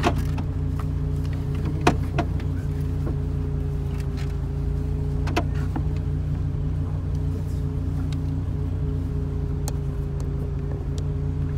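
Dodge Viper's V10 engine idling steadily, heard from inside the cabin, with a few sharp clicks about two and five seconds in.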